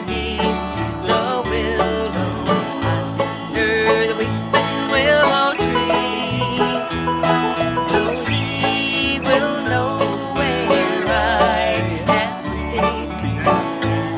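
Acoustic bluegrass picking: a banjo and a guitar play an instrumental passage at a steady tempo over a walking bass line.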